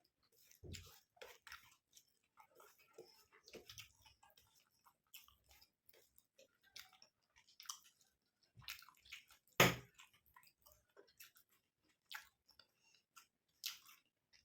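Close-miked chewing and wet mouth sounds of someone eating curry with rice: a string of short irregular smacks and clicks, with one louder sharp smack about two-thirds of the way through.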